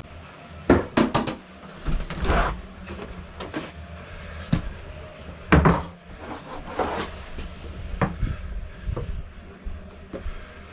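A series of irregular knocks and thumps, the loudest about a second in and again about halfway through, over a steady low rumble.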